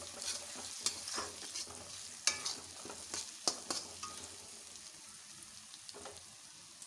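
Masala paste frying in oil in a metal kadai, sizzling, while a metal spatula scrapes and clinks against the pan as it stirs. The clinks are sharpest in the first few seconds, and the sizzle goes on more quietly after that.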